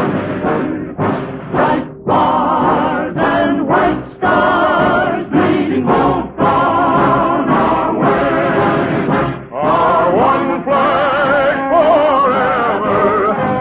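Choir and orchestra performing a musical number, with sung phrases breaking off and restarting in the first half and held notes with a strong vibrato in the second. The sound is cut off above the upper treble, as on an old radio transcription.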